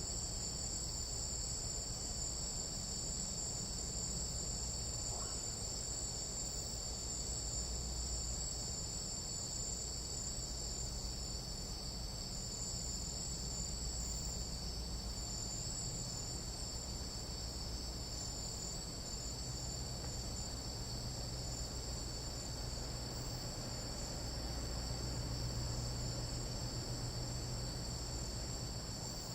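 Chorus of jungle night insects: a steady, high-pitched trilling in several overlapping pitches, over a low background rumble.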